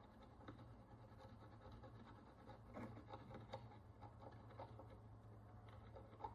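Faint, irregular scratching and light ticking of a small hand tool picking encrustation off an ancient Roman bronze follis, heard over a low steady hum. The scratches cluster about three seconds in, with single ticks later on.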